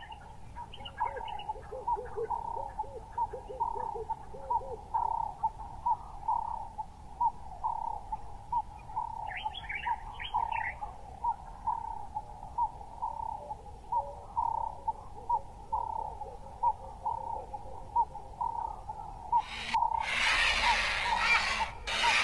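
Wild birds calling: one bird repeats a short note about twice a second, with a few lower notes from another bird at first and a brief higher chatter midway. A rushing noise comes in near the end.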